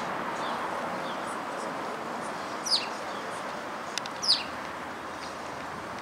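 Small songbird giving short, sharp chirps that fall in pitch: two loud ones, a bit under three seconds in and just past four seconds, with a few fainter ones between, over a steady background rush.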